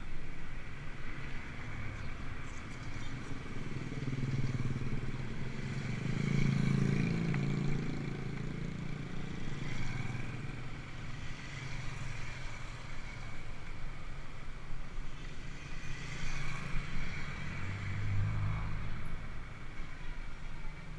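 Motor vehicle engines on a road, a low hum that swells as a vehicle passes about six seconds in and again near the end.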